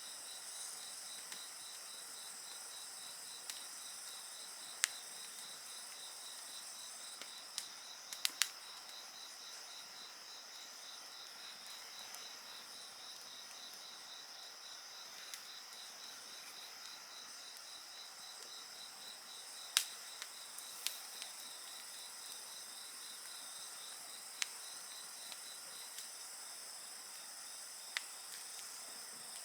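Crickets and other insects trilling steadily in a fast, even pulse, with a wood fire giving a few sharp crackles and pops, the loudest about 5, 8 and 20 seconds in.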